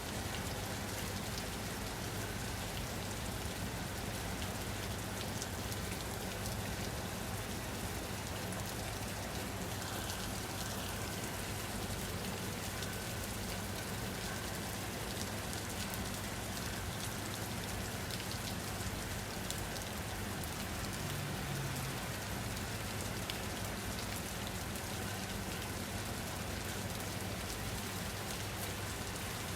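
Steady rain falling on a surface, an even patter of many fine drops with no change.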